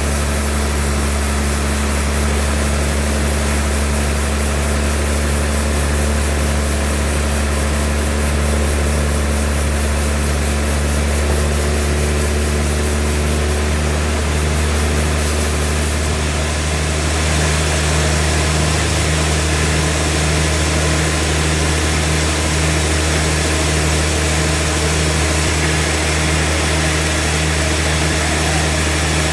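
Sawmill machinery running with a steady engine drone, its tone shifting slightly about halfway through.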